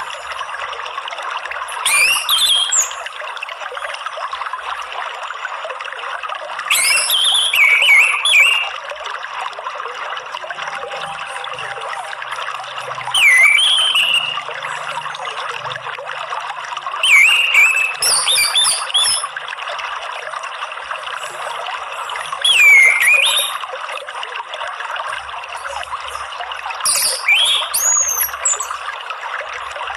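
Orange-headed thrush singing six short phrases of gliding whistles, one every four to five seconds, over a steady trickle of running water. It is a lure-and-therapy recording meant to set caged thrushes singing.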